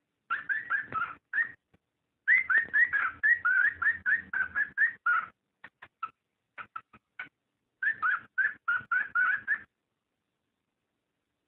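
Cockatiel whistling its mating call: quick runs of short chirping whistled notes in three bouts, with a few single notes in the gaps between them.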